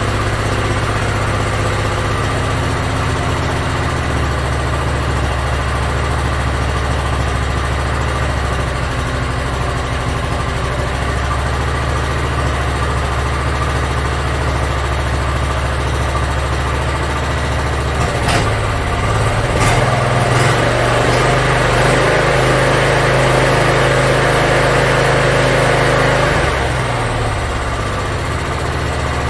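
Small riding-mower engine running steadily at idle. A few clicks come about two-thirds of the way in, then it runs louder for several seconds before dropping back to idle near the end.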